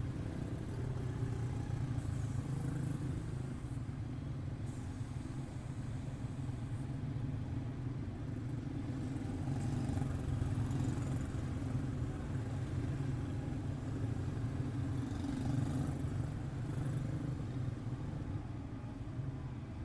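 Several quarter midget race cars with single-cylinder Briggs & Stratton Animal engines running on the track in a steady drone that swells a little now and then as the field passes.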